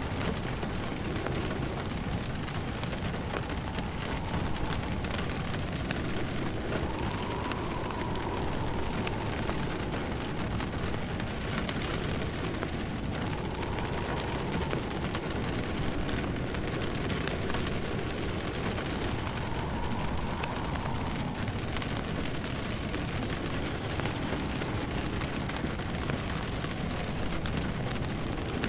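Steady rain pattering, mixed with the crackle of a wood fire in a fireplace. A faint whistling tone swells and fades about every six seconds.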